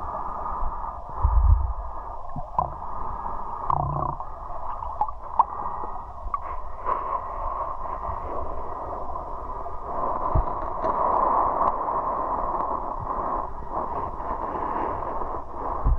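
Muffled, steady rush of flowing river water heard through an underwater camera, with scattered small clicks and knocks.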